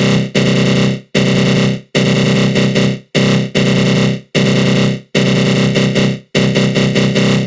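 Synthesized growl sound effect from the GMS synth in FL Studio Mobile, run through a flanger. It plays as repeated loud, harsh buzzing bursts, each up to about a second long, with short breaks between them and a fast flutter inside each burst.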